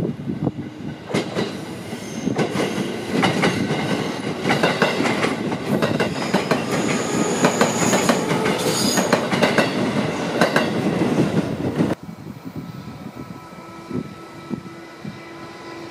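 Electric commuter train running past, its wheels clattering over rail joints and points with brief high wheel squeal. About twelve seconds in it cuts off suddenly to a quieter, steady distant rumble.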